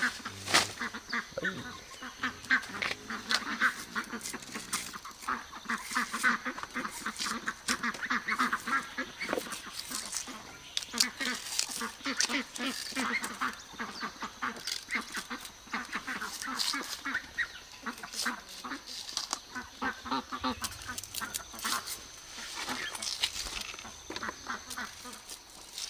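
Animal calls, many short calls in quick succession, going on without a break.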